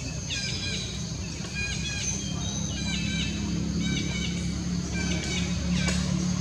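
Wild bird song: a short chirping phrase repeated about once a second. Under it runs a steady low rumble that grows louder from about two seconds in.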